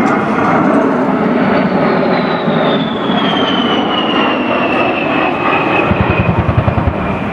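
Fixed-wing military aircraft flying past, its engine noise carrying a high whine that falls slowly in pitch as it goes by. A low fluttering is heard briefly near the end.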